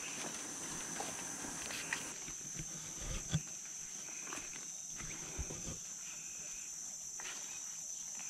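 Steady high-pitched drone of rainforest insects, with a few soft footsteps or knocks in the middle.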